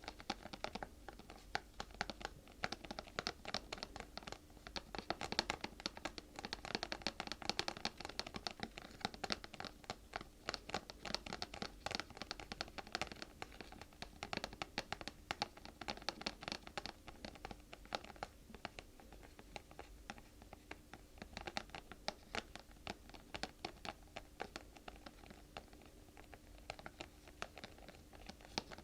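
Close-miked ASMR scratching and tapping on an object: a dense, continuous run of small quick clicks and scrapes.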